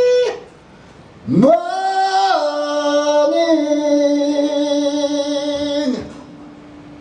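A single voice holding one long sung note. It swoops up into the note about a second in, drops to a slightly lower pitch and holds it, then stops near the end.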